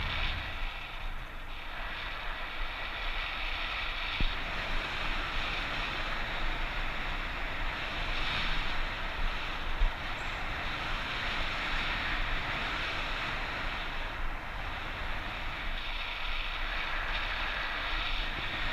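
Steady rushing wind noise on the microphone, an even hiss with small swells and a few faint knocks.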